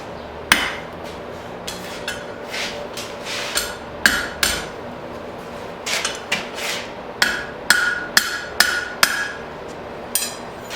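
Blacksmith's hand hammer striking hot steel bar on an anvil to forge a hook: irregular blows about two a second, some ringing.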